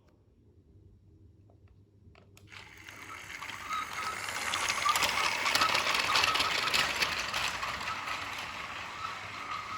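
Battery-powered Märklin My World toy train running on plastic track: a geared motor whine with clicking, rattling wheels. It starts about two and a half seconds in, grows louder over the next few seconds, then eases a little.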